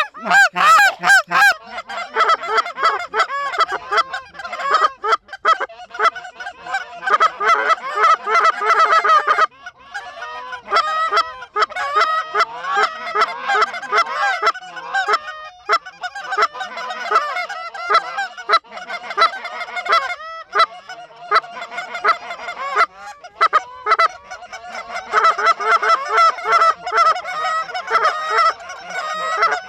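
Geese honking in a dense chorus of short, rising-and-falling honks, with brief lulls about nine and a half seconds and twenty seconds in.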